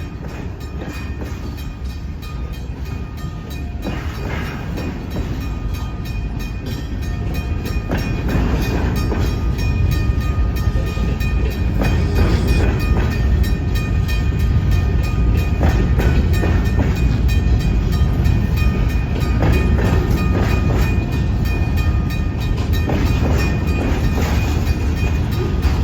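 Ann Arbor Railroad manifest freight train rolling past, a steady heavy rumble with wheels clacking over the rail joints. It grows louder over the first half and then holds.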